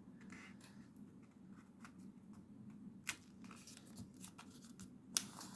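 Square sheet of origami paper being unfolded and refolded into a triangle: faint rustling and scattered soft clicks as it is handled and creased, with two sharper ticks about three and five seconds in.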